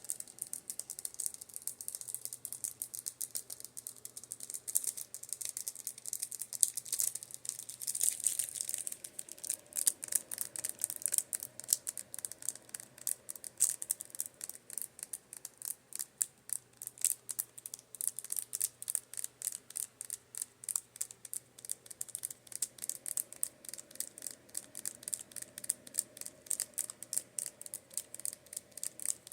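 Makeup brushes being tapped: fast, crisp little clicks, several a second, with a faint steady hum of a fan underneath.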